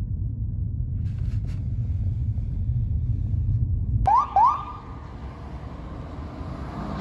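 Fire engine's diesel engine rumbling steadily, then about four seconds in two quick rising siren chirps in a row, each sweeping up in pitch, before the rumble carries on.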